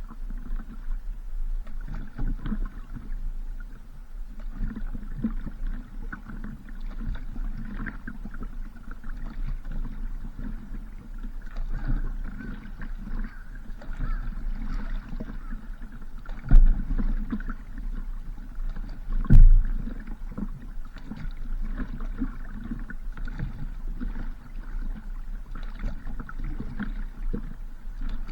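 Paddling on the water from a stand-up paddleboard: a steady low rumble with lapping and splashing, broken by two heavy thumps about three seconds apart past the middle.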